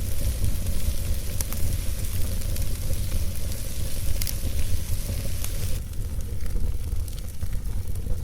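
Campfire burning, crackling with a steady hiss and occasional sharp pops, over a constant low rumble. The hiss thins out about six seconds in.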